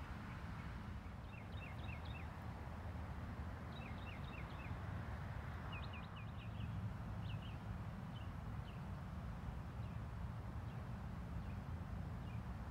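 A small songbird sings short runs of quick high chirps, three to five notes a run, several times over a steady low rumble of outdoor background noise.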